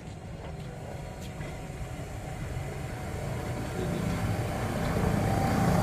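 Red electric rack-railway train of the Montenvers line approaching, its low running rumble growing steadily louder as it nears.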